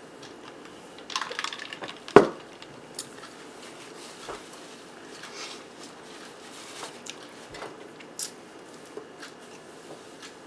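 Close-miked eating and cutlery sounds of a zucchini-boat meal: soft mouth and handling noises, a short crackly rustle about a second in, and one sharp knock just after two seconds, the loudest sound, then a few scattered small clicks.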